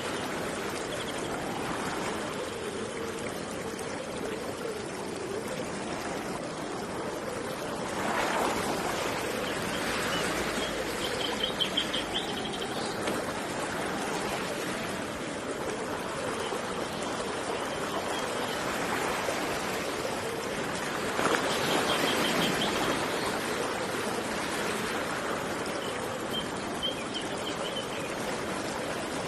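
Running river water flowing steadily, swelling louder twice, with a few short, high bird trills over it.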